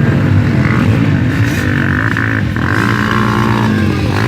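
Motocross motorcycle engines revving, their pitch rising and falling again and again as the bikes accelerate and ease off.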